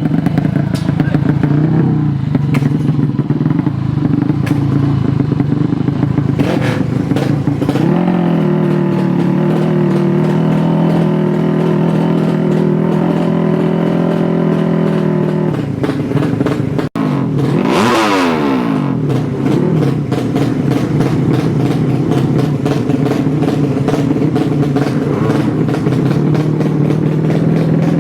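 Drag-racing motorcycle engines running at high revs, held steady for several seconds at a time. About seventeen seconds in the sound breaks off briefly, followed by a quick sweep down and up in pitch.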